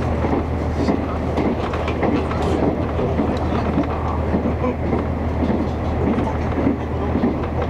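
Interior running noise of the Resort Minori, a diesel railcar train, travelling at speed: steady wheel-on-rail rumble over a constant low hum.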